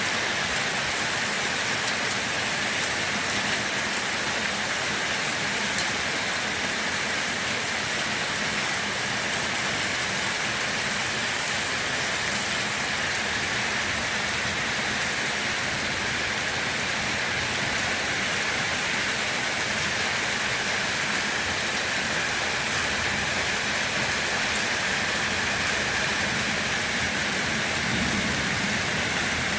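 Steady rain falling, a continuous even hiss with fine patter of drops hitting a surface.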